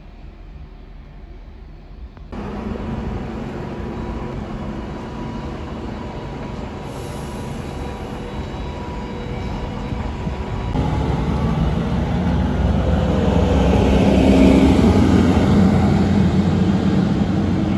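Diesel railcars running past a station platform. First a faint distant train. Then a red diesel multiple unit goes by. Last, a Regio-Shuttle diesel railcar passes close, its engine and wheel noise loudest a few seconds before the end, with a high squeal above the rumble.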